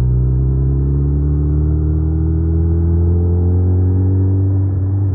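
Suzuki Hayabusa inline-four engine pulling steadily under way, its pitch climbing slowly and evenly as the bike gathers speed in one gear.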